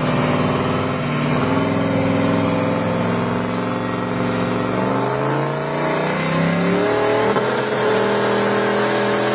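Duramax diesel V8 in a 2006 Chevrolet Colorado running hard under heavy throttle while the rear tires spin. The engine pitch climbs past halfway through, with a high whine rising along with it.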